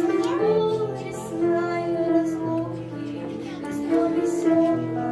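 A girl singing a slow melody with long held notes over sustained instrumental accompaniment.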